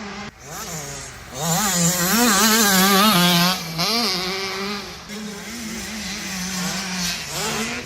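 Motocross dirt bike engines racing past, loudest between about a second and a half and three and a half seconds in. Their pitch rises and falls quickly as the riders work the throttle, then they settle to a quieter, steadier drone.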